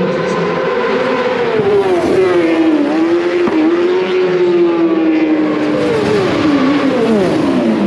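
Racing motorcycles pass at speed in quick succession, their engine notes dropping in pitch as each goes by, with a second bunch passing near the end.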